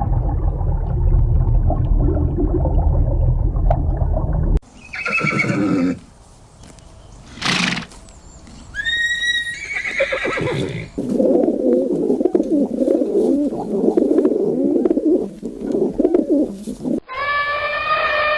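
A string of separate animal calls cut one after another, ending in a horse whinnying: a falling, quavering call.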